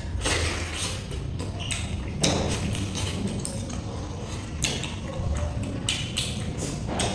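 Close-up eating sounds: chewing, lip smacks and sucking as turtle meat is bitten and pulled apart by hand, in many short irregular wet clicks.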